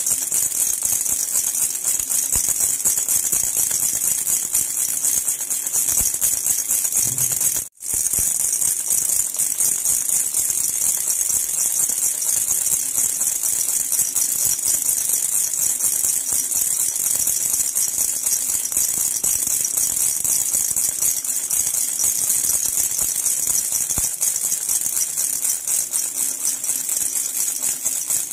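Silver jhunjhuna (metal baby rattle) shaken continuously, giving a dense, bright jingling, with one brief break about eight seconds in.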